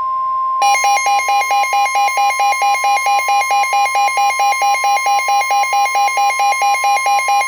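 NOAA Weather Radio warning alert: a steady high tone, with a rapid alternating beep of about five pulses a second joining it about half a second in. It signals that a warning is about to be broadcast.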